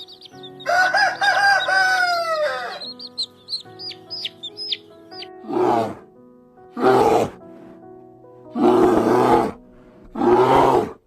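Animal calls over steady background music: a long pitched call that falls away at its end, then quick high chirps, then four short harsh calls.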